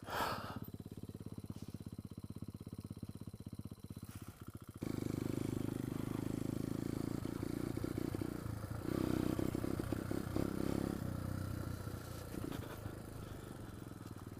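Pit bike's small single-cylinder engine idling with a fast, even putter, then opened up about five seconds in and held at higher revs, with a louder surge a few seconds later.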